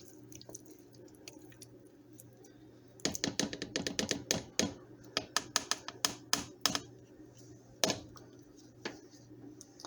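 A utensil clicking and knocking against a crockpot while stirring shredded chicken in thick barbecue sauce. There is a quick run of knocks lasting about four seconds, starting about three seconds in, then two single knocks.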